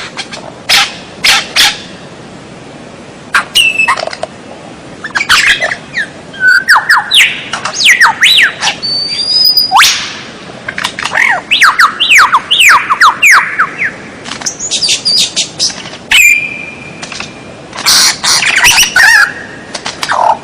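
White-rumped shama (murai batu) singing a varied, loud song: sharp chips, whistled notes and, through the middle, rapid runs of quick downslurred notes, in phrases broken by short pauses.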